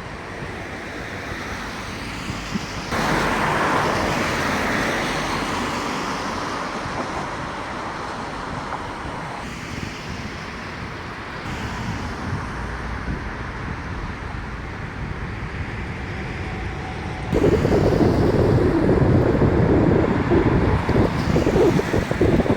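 Boeing 757-300 jet engines at takeoff power, a steady rushing roar heard from a distance. It jumps suddenly louder about 3 s in and again, louder and rougher, about 17 s in.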